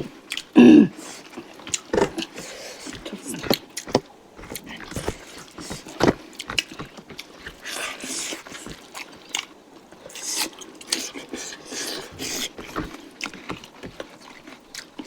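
Close-up eating sounds from people chewing and biting into chicken curry: repeated short clicks and smacks, with a brief voice sound about a second in.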